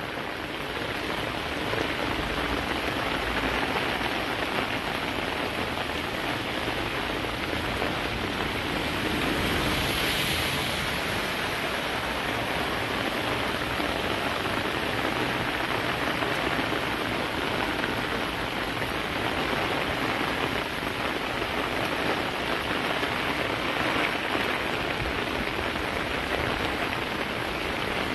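Steady rain pouring down on flooded streets, an even dense hiss with a slight swell about ten seconds in.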